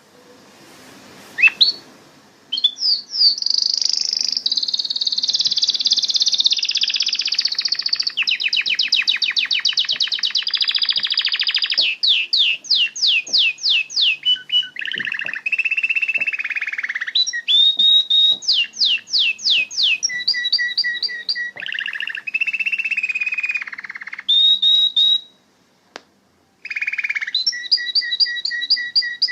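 Canary singing a long, varied song of fast trills and rolls of rapidly repeated notes at several pitches. It starts a moment in and breaks off for about a second near the end before going on.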